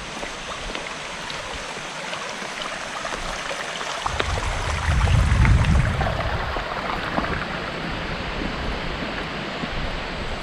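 Water running steadily in a stream, with a burst of low wind rumble on the microphone about four to six seconds in.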